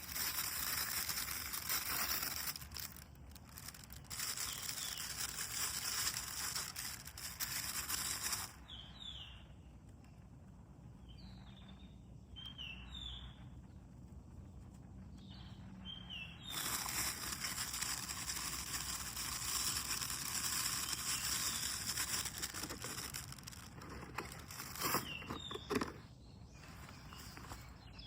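Outdoor ambience of small birds giving short, falling chirps, over a steady high hiss that cuts out for several seconds in the middle.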